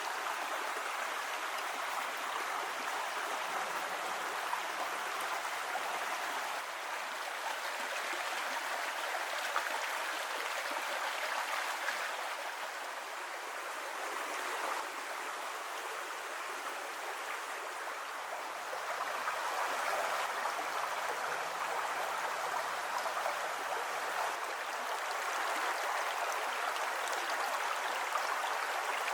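Creek water rushing over rocks in small falls and riffles: a steady rushing splash that eases slightly about halfway through, then swells again.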